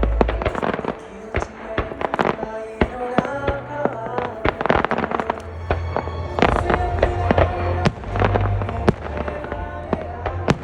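Fireworks bursting in quick, irregular sharp cracks and pops over music with a heavy bass playing for the show.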